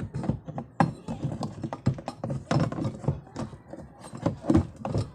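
A run of irregular taps and knocks on hard objects, several to the second, some louder than others.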